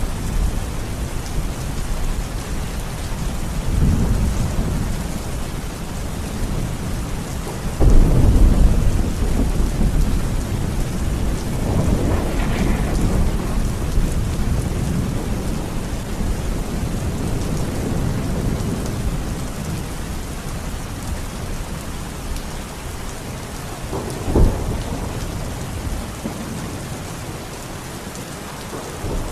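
Thunderstorm: steady heavy rain with rolling thunder. A loud low clap about eight seconds in rumbles away over several seconds, with a sharp crack of thunder near the end.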